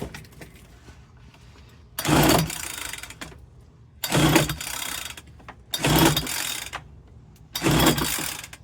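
Four pulls on the recoil starter of a Homelite 30cc two-stroke backpack leaf blower, each turning the engine over for about a second with a whirring rush. The engine does not catch; at most it is almost trying to fire.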